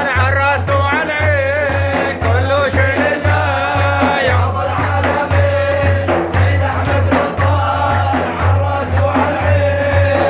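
Male voice singing a Sufi madih (religious praise song) in an ornamented, wavering melody over a steady low drum beat of about two beats a second.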